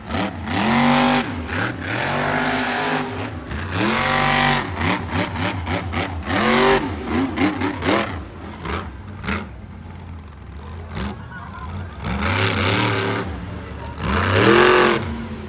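Monster truck engine revving hard in repeated bursts, each rising and falling in pitch, with a quieter stretch in the middle before two more full-throttle runs near the end.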